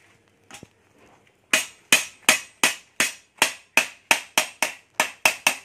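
A hammer striking metal in a run of about fourteen sharp blows, about three a second and quickening slightly toward the end, each with a brief ring.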